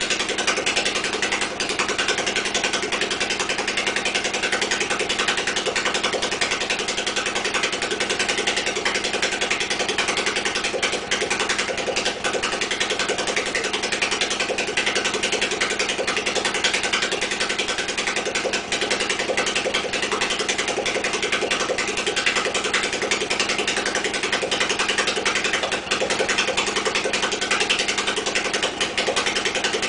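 1992 Honda Nighthawk 250's air-cooled parallel-twin engine idling steadily, running for the first time after 11 years in storage.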